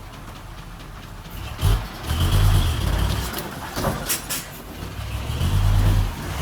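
Diesel engine of heavy earthmoving machinery surging loudly under load twice, about two and five seconds in, with a faint high whine during the surges and sharp metallic clanks between them.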